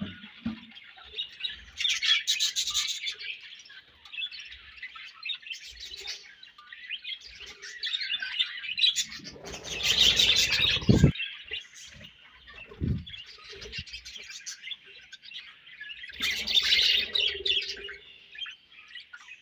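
A colony of budgerigars chirping and chattering continuously, many birds at once, with louder bursts of chirping about two seconds in, about halfway through and near the end. A few low thumps or rustles come around the middle.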